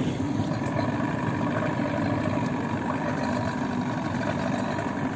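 Two-stroke outboard motor running steadily at low speed.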